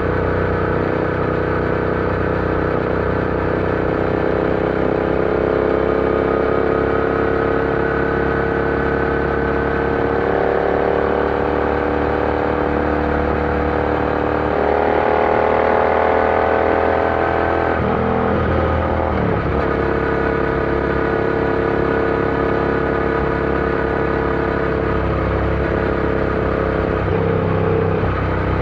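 Royal Enfield Interceptor 650's parallel-twin engine under way. Its pitch climbs slowly as the bike accelerates in gear, then drops sharply about eighteen seconds in with a gear change, and it runs at a steady pitch after that.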